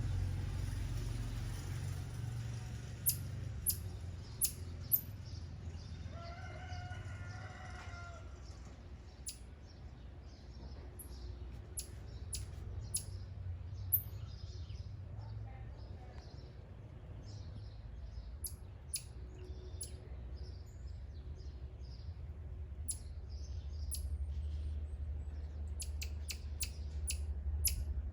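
Birds chirping: many short, very high chirps scattered throughout, over a steady low rumble. About six seconds in comes one longer, lower call of about two seconds.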